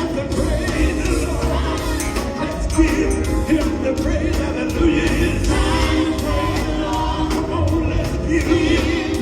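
Live gospel music: voices singing together over a band with a strong, steady bass.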